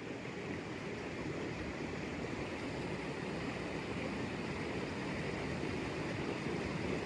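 Steady rush of a waterfall and mountain stream, an even, unbroken noise of falling water.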